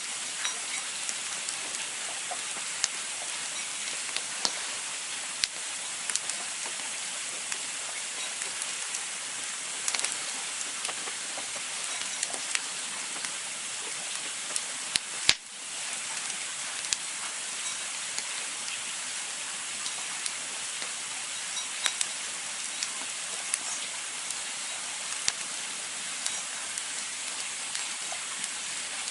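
Campfire crackling: a steady hiss with irregular sharp pops and snaps of burning wood, the loudest pop about halfway through.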